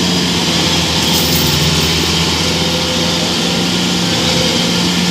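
Combine harvester engines running steadily under load while one harvester tows another out of deep mud.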